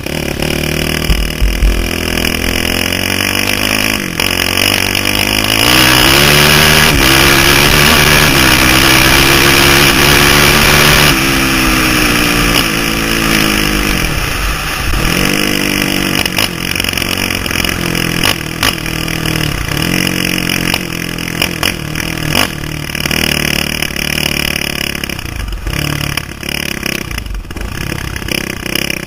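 Dirt bike engine being ridden through the gears, its pitch climbing on each pull and dropping back at each shift or throttle lift. The loudest stretch, held at high revs under a rushing noise, comes a few seconds in and cuts back suddenly around the middle.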